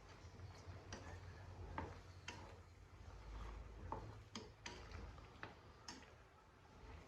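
Faint, irregular clicks and taps of a spatula against a pan while stir-frying octopus and asparagus, roughly one every half second, over a low hum.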